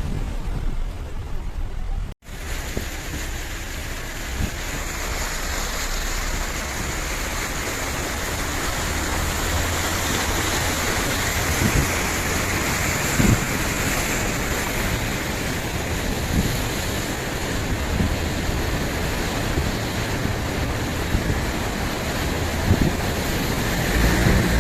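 Heavy rain falling: a steady, dense hiss with scattered small drop clicks, cut off by a brief dropout about two seconds in before resuming.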